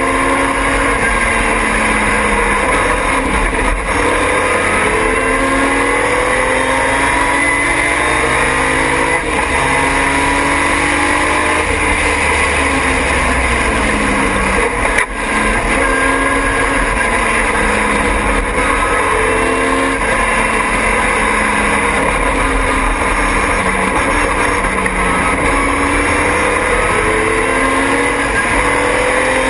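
Triumph TR6 race car's straight-six engine at racing speed, heard onboard. The revs climb and fall again and again through upshifts, braking and corners.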